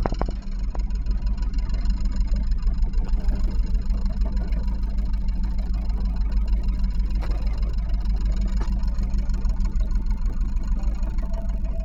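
A Catalina 30 sailboat's inboard engine idling steadily, a continuous low drone while the boat sits in its slip.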